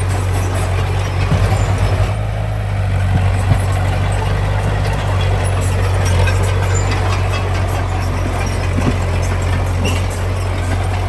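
Heavy construction machine's diesel engine running steadily with a deep, even drone, and a brief pulsing surge about a second in.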